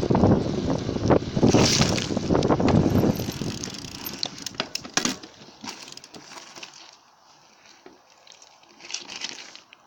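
Bicycle riding, heard from a camera mounted by the back wheel: tyre rumble and wind buffeting the microphone, which die away over the first half, leaving a few sharp clicks and then quiet.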